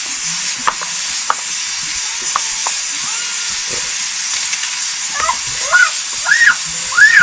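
Food frying in a pan with a steady sizzle, with a couple of sharp knocks from a stirring utensil in the first seconds. Near the end a run of short, high rising-and-falling calls comes in over the sizzle.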